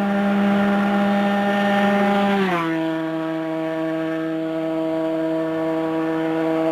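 A 2003 Aprilia RS 125's single-cylinder two-stroke engine screams at steady high revs as the bike passes at speed. The pitch drops sharply about two and a half seconds in as it goes by, then holds steady while it moves away.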